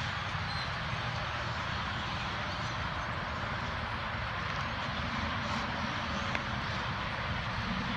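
A huge flock of blackbirds calling all at once: a dense, steady chattering din, over a low steady rumble.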